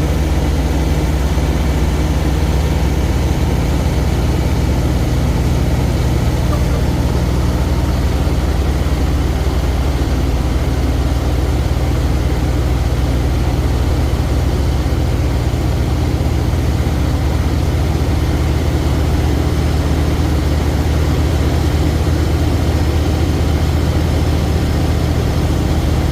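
Heavy truck engine running steadily, a constant low drone that does not change.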